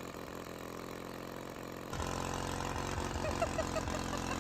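Engine running steadily; about two seconds in it suddenly becomes louder and fuller, with a few short chirps a little after.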